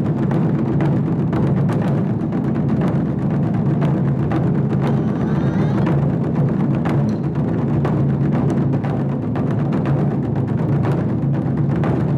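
Japanese taiko drum ensemble playing a fast, dense rhythm of sharp strikes over deep, resonant drum bodies.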